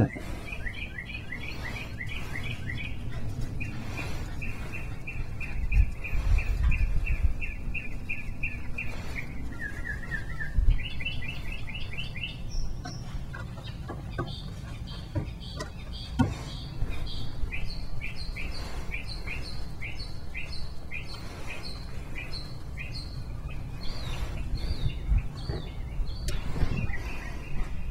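A bird singing long runs of quick, evenly repeated chirps that shift pitch from run to run, over a steady low hum, with an occasional knock.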